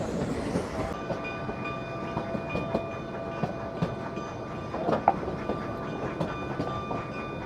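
Narrow-gauge train cars rolling along the track, with wheels clicking over the rails. From about a second in, steady high ringing tones run under the rolling noise.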